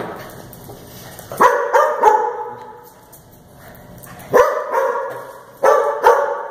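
Dog barking during play: a few sharp barks about a second and a half in, then three more spread over the last two seconds.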